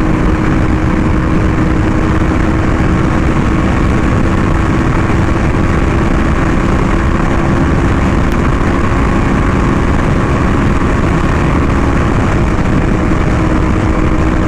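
Yamaha R1M's crossplane inline-four through an SC Project exhaust, running at a steady cruise on the highway with wind rush, engine speed holding constant with no revving or shifting.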